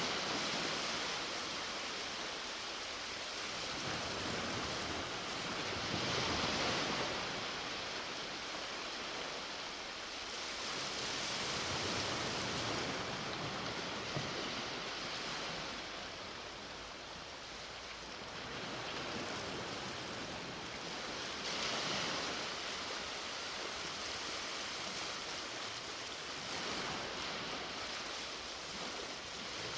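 Sea waves breaking on the shore as a steady hiss that swells and fades about every five seconds as each wave comes in.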